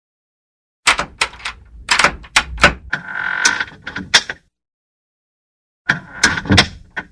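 A door being worked: two clusters of sharp rattling knocks and clacks, the first with a short squeak of the hinge partway through, the second about five seconds in.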